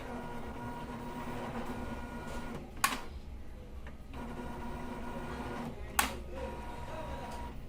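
Epson L805 inkjet printer running its power-on initialization: its motor whirs steadily in two long runs, broken by two sharp clicks about three seconds apart.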